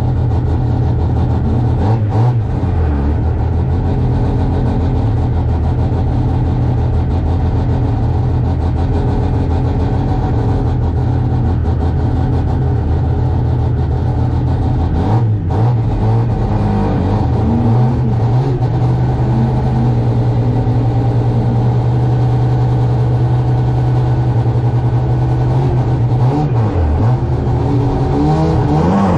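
Race car engine heard from inside the cabin, running hard at steady high revs. The revs dip briefly a few times, about two seconds in, around halfway and shortly before the end, then climb again.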